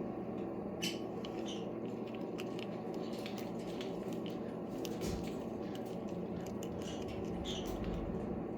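A parrot cracking and nibbling a hazelnut shell with its beak: irregular small clicks and crunches over a steady low hum.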